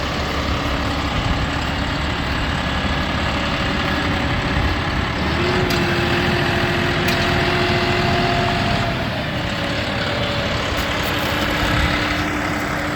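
John Deere 5060E tractor's three-cylinder diesel engine running steadily. Its pitch steps up briefly in the middle and then settles back.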